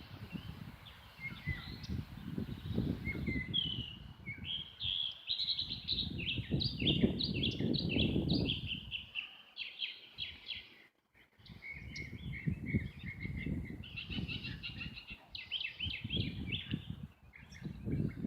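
Small birds chirping: dense runs of short, quick high notes, pausing briefly about two-thirds of the way through, over a low uneven rumble.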